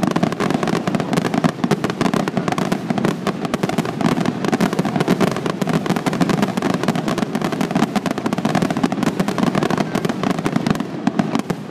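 Fireworks display: aerial shells and ground effects bursting in a dense barrage of rapid bangs and crackles, dying down just at the end.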